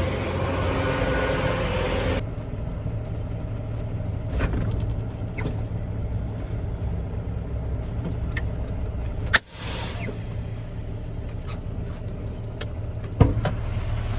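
Semi truck's diesel engine idling with a steady low rumble, broken by a few sharp clicks, the loudest about nine seconds in and another near the end.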